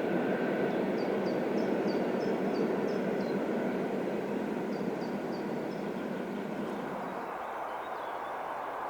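An ЭП2Д electric commuter train running on the line; its steady rumble dies away from about seven seconds in. Over it, a bird chirps in two quick runs of short notes.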